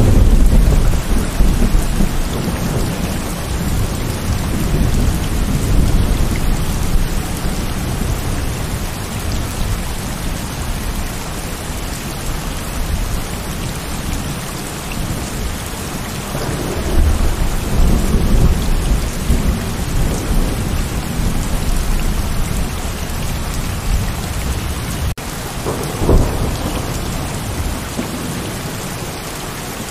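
Heavy rain falling steadily with thunder: a loud thunderclap at the start rumbles on for several seconds, a second long rumble comes about halfway through, and a shorter one comes near the end.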